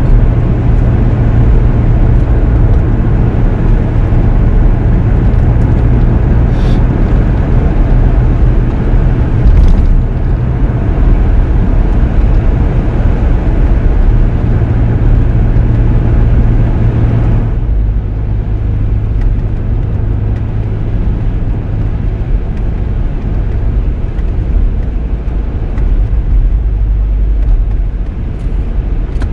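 Car driving: a steady low engine and road hum with tyre hiss. The higher hiss drops away about two-thirds of the way through, leaving the low hum.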